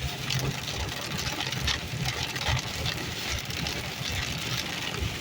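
Heavy rain hitting a moving car, a dense patter of drops over a low rumble of the road and engine.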